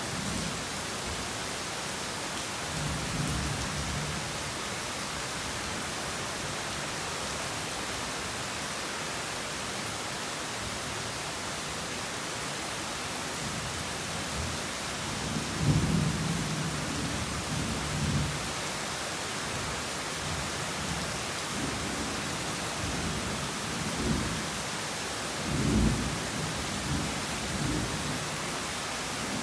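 Heavy rain falling in a steady hiss, with distant thunder rumbling low several times; the strongest rolls come about halfway through and near the end.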